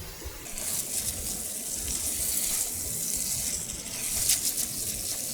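Oil and spices sizzling in a pan on a camping stove, a steady hiss that starts about half a second in, with a few brief scrapes near the end.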